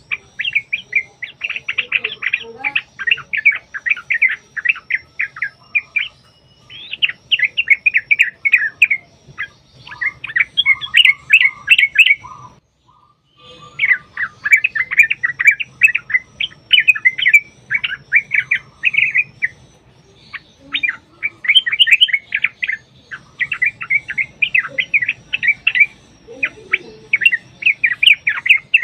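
Yellow-vented bulbuls (trucuk) calling in long, rapid runs of bubbly chattering notes, several birds at once. The calls break off for about a second near the middle before starting again.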